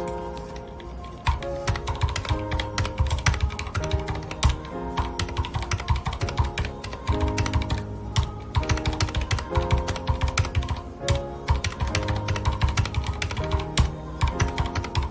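Mechanical keyboard with red (linear) switches being typed on in fast, irregular runs of key clicks, starting about a second in. Soft background music plays throughout.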